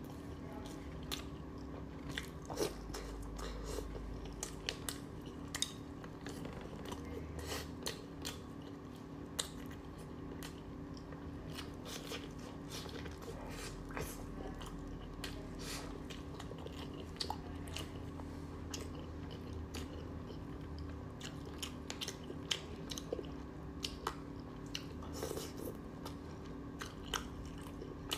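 Close-miked chewing and biting, with frequent sharp crunchy clicks, from a person eating chicken gizzards and livers and a cob of black corn. A faint steady low hum runs underneath.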